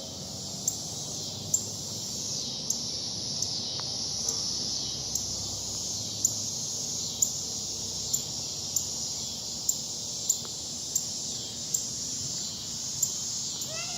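A bird giving short, sharp chip notes, a little more than once a second, over a steady high-pitched drone of insects.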